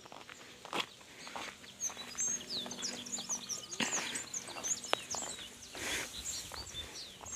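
Small birds chirping: many short, quick, high chirps overlapping, thickest from about two seconds in, with a few scattered soft knocks.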